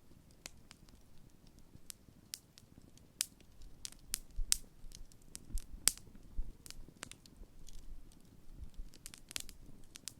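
Wood bonfire crackling as it burns down: irregular sharp pops and snaps, a few louder ones in the middle, over a soft low rustle.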